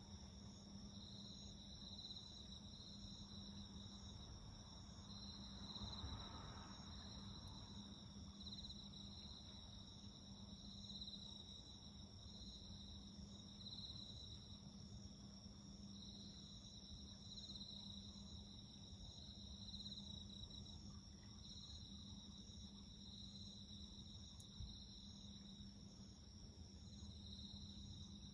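Faint night-time insect chorus of crickets chirping in pulses about once a second, over a steady high trill and a low hum. A brief faint swell of noise comes about six seconds in.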